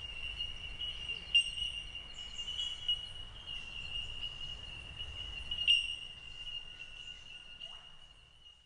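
A flock of bell miners calling: a steady, high ringing chorus of overlapping 'tink' notes, with a couple of louder single notes about a second and a half and just under six seconds in.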